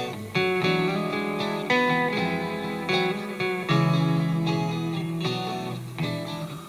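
Guitar music: plucked notes and chords, a new one struck about every second or so, each ringing on and fading before the next.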